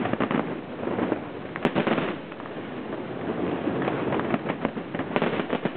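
Fireworks display: dense, rapid crackling and popping of bursting shells. A sharper bang comes about one and a half seconds in, and a thicker run of bangs near the end.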